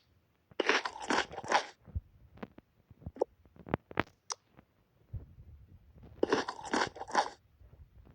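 Two runs of three or four quick crunches, about a second in and again around six seconds in, with light clicks and taps between them.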